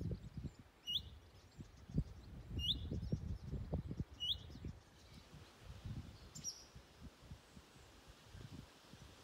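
A small songbird calling a short rising chirp again and again, about once a second, for the first half; one different, higher call follows a little past the middle. Irregular low rumbling gusts run under it, louder than the bird: wind on the microphone.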